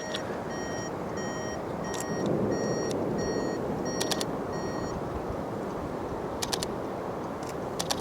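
Steady wind rushing over the microphone. Over it, a vehicle's electronic warning chime gives about seven short, evenly spaced beeps and stops about five seconds in. A few sharp clicks follow.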